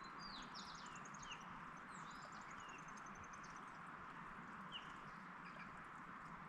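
Small birds singing faintly: two quick high-pitched trills near the start and around two seconds in, with short scattered chirps throughout, over a steady background hiss.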